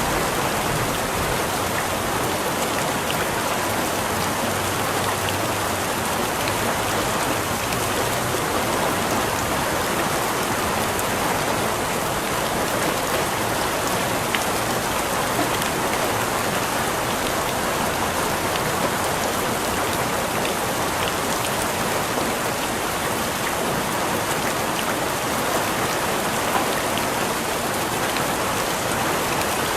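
Steady, even rain falling on a surface, with scattered individual drops just audible in the hiss.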